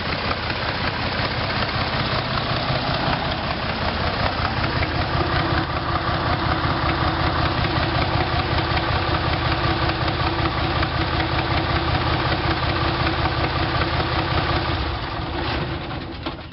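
Deutz diesel engine idling with a steady rapid clatter, running a little off because its turbo is not hooked up and its exhaust gaskets are not yet fitted. Near the end the engine sound dies down.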